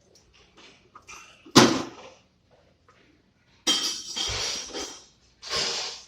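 Kitchenware clattering in a small room: a sharp knock about a second and a half in, then two longer spells of rattling and clinking near the end.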